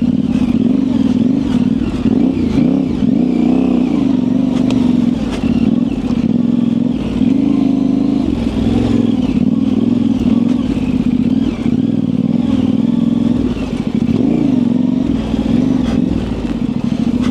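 Yamaha Tenere 700's parallel-twin engine, fitted with an aftermarket high exhaust, running at low to moderate revs under changing throttle, its pitch rising and falling again and again. Occasional sharp clicks and knocks sound over it.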